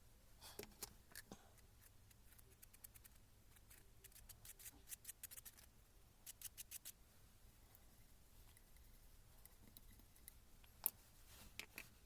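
Quiet, scattered clicks and light taps of small parts and tools being handled, in short clusters including a quick run of about six clicks, with one sharper click near the end.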